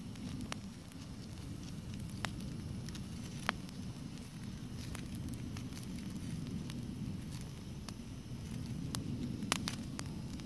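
Wood campfire crackling, with scattered sharp pops over a steady low rumble; the loudest pops come about a third of the way in and near the end.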